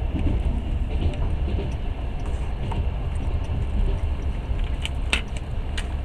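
Passenger train running, heard from inside the carriage as a steady low rumble, with a couple of sharp clicks near the end.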